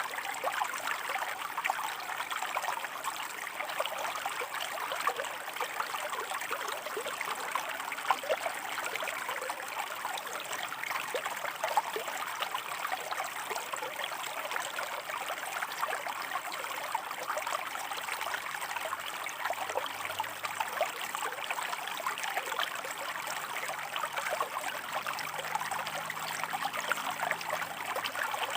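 Shallow river water flowing over rocks: a steady, even rush with many small splashes and trickles, without a break.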